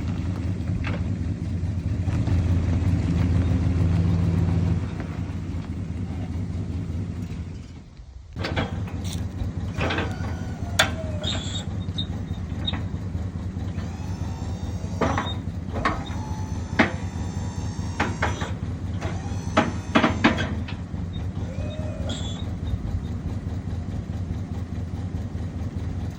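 Pickup truck engine running steadily, a little louder for a few seconds early on, with a brief drop near the 8-second mark, then scattered sharp clicks and high squeaks over the running engine.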